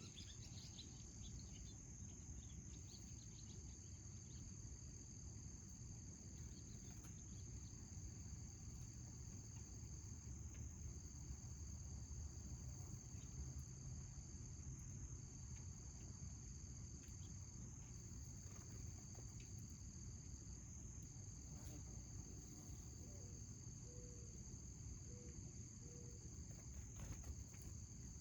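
Insects trilling steadily: one high, unbroken trill and a slightly lower trill that breaks off briefly every couple of seconds, over a low rumble. A few faint bird chirps come right at the start.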